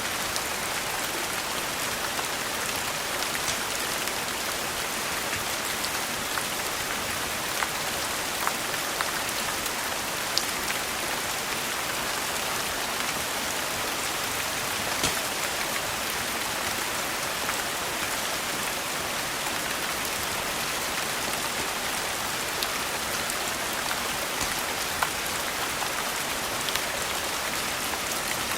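Steady rain falling, a dense even hiss, with scattered sharp pops and crackles from a wood fire.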